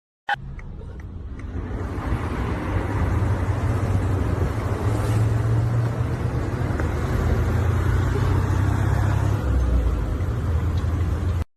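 Low, steady rumble of a motor vehicle, starting suddenly with a short click and building over the first two seconds, then cutting off abruptly near the end.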